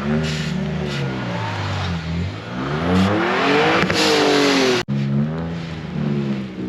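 Car engine revving hard, its pitch rising and falling with the throttle and climbing to a peak about four seconds in. The sound drops out for an instant just before five seconds, then the engine carries on at a lower pitch.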